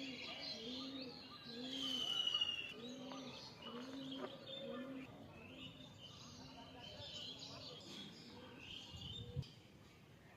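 Several birds calling together: a low hooting note repeated steadily about every 0.7 seconds, under a scatter of higher chirps and whistles, with one clear whistled note about two seconds in. A brief low thump comes near the end.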